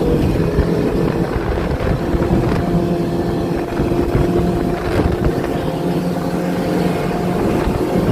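Outboard motors running under power on fishing boats, several steady engine tones at once, with wind on the microphone.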